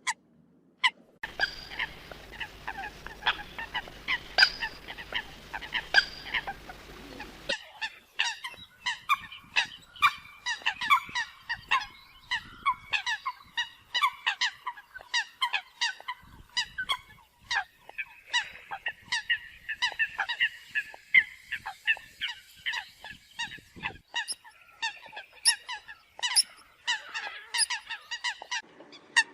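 Eurasian coots calling: many short, nasal honking calls in rapid, overlapping succession, as in a bird-lure recording. The recording cuts between sections, with a low hum underneath the first few seconds.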